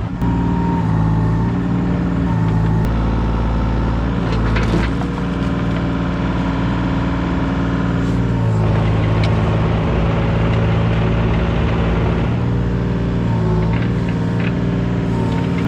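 New Holland mini excavator running steadily while digging, its engine note sagging briefly now and then under hydraulic load. A few metallic clanks from the bucket and tracks come through over the engine.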